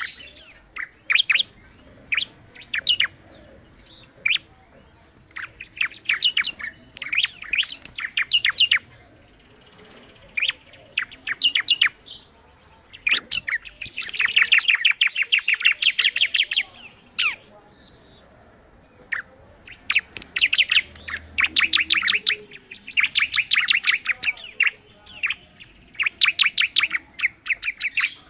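A ciblek (prinia) singing vigorously: bursts of fast, high, repeated chirping notes, each phrase lasting one to three seconds, with short pauses between phrases.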